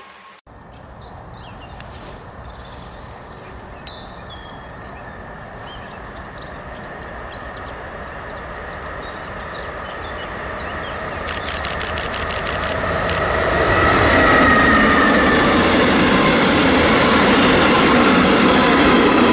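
Lineas Class 13 electric locomotive hauling petroleum tank wagons, approaching and growing steadily louder over the second half, with a high whine near the end. Small birds chirp in the first few seconds.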